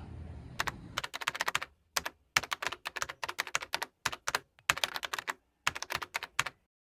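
Typing on a computer keyboard: rapid key clicks in short bursts with brief pauses between them, stopping abruptly near the end.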